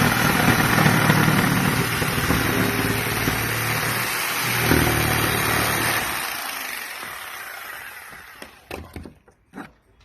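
Electric jigsaw running as it cuts to enlarge a dryer-vent hole in the wall, with a brief dip about four seconds in. About six seconds in it is let off and winds down, followed by a few light knocks.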